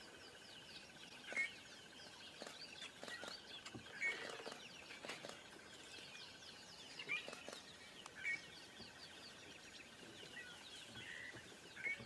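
Small birds chirping and calling, with a handful of louder short calls every few seconds over a faint steady trill.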